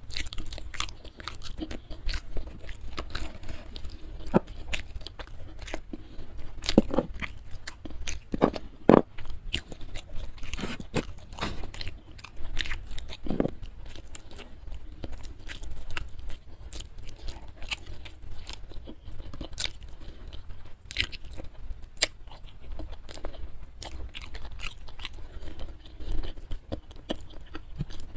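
Close-miked eating by hand: chewing and biting with many irregular crunchy clicks, as chicken feet cooked in Balinese spice are eaten, with fingers working through rice and saucy food in between. A few louder crunches stand out about a third of the way in.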